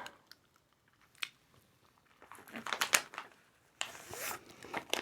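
Close-miked eating sounds: crunching and chewing a snack, with scattered sharp clicks and short crackly bursts.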